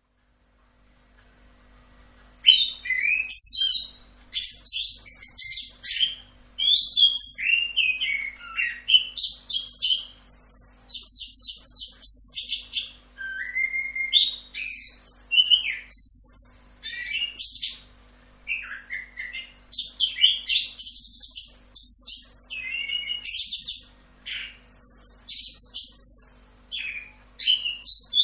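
Orange-headed thrush (anis kembang) singing a long, continuous rolling song of rapid, varied whistles and chattering phrases. The song starts after a brief silence about two seconds in.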